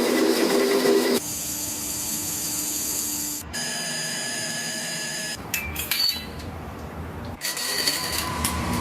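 Power tools running in a string of short spliced-together shots of a transmission teardown: each is a steady whir with hiss, switching abruptly every second or two, with a few short clicks in the middle.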